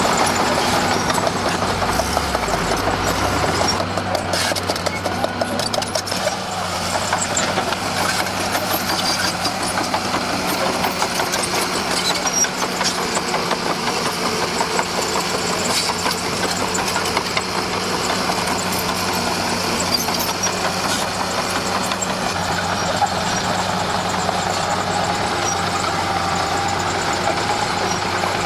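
Komatsu D41P crawler bulldozer's diesel engine running steadily under work, with a continuous busy rattle over the engine hum.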